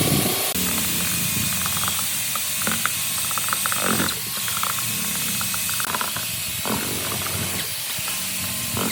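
A steady high hiss with scattered clicks and short rattles over a low hum.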